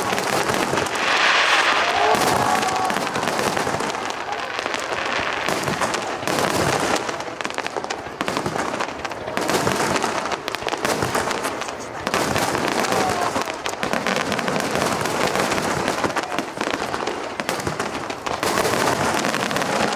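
Fireworks display: aerial shells bursting in rapid, unbroken succession, with dense crackling and bangs throughout.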